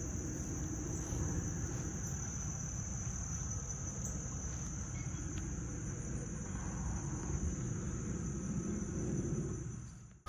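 Insects trilling in one steady high-pitched band over a low outdoor rumble, fading out near the end.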